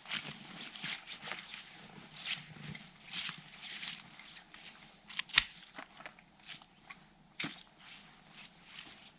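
Footsteps crunching in snow at an uneven pace, with one sharp click about five seconds in.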